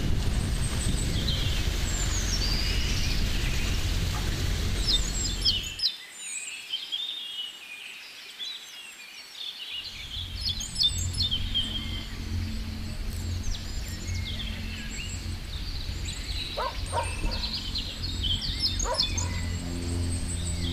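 Small birds chirping and trilling over a low outdoor rumble. The rumble drops away for a few seconds about a quarter of the way in. It returns as a steady low hum while the birds go on.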